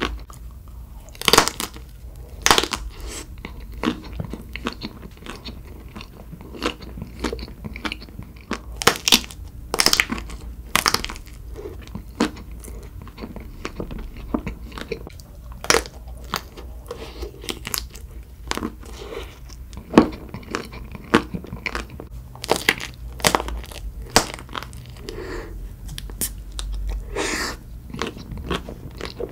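Close-up chewing and biting of a frozen chocolate-coated KitKat ice cream bar with a wafer inside, the chocolate shell cracking in irregular sharp crunches. A steady low hum lies underneath.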